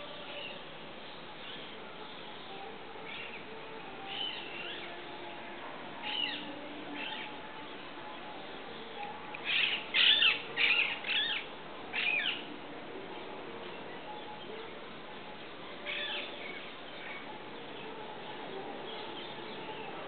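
A small bird calling in a tree: short, high calls scattered through, with a run of five loud ones about ten seconds in.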